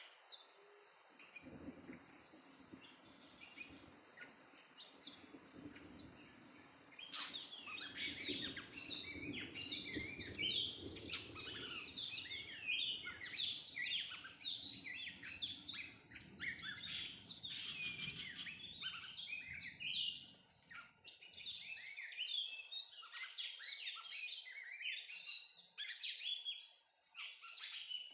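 Oriental magpie-robin (kacer) song: a rapid, varied run of loud whistled and chattering notes that breaks in suddenly about a quarter of the way through and carries on, over a thin, steady high tone.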